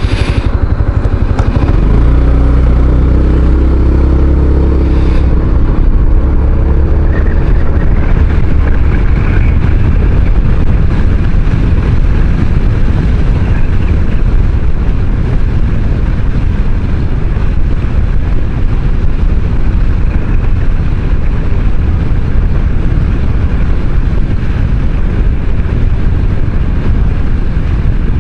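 Maxi-scooter, a Kymco Xciting 500, under way: engine drone mixed with a steady rush of wind and road noise on the microphone. The engine's low tone is strongest from about two to six seconds in, then the sound settles into an even rush.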